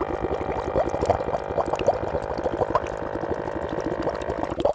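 Water from a miniature toy water pump trickling and gurgling into a small pool, with many quick bubbling plops over a steady hum.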